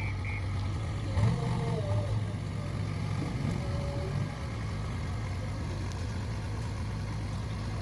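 Backhoe loader's diesel engine running steadily at a low, even pitch.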